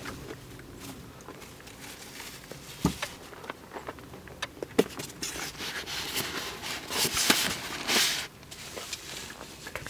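Motorcycle engine parts and their plastic packaging being handled: a few scattered light knocks, then about two seconds of rustling and crinkling.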